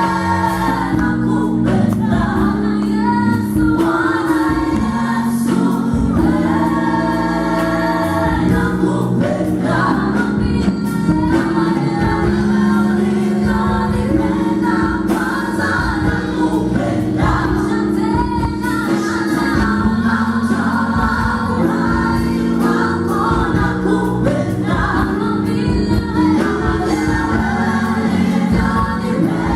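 Gospel song with several voices singing together in harmony over a band accompaniment.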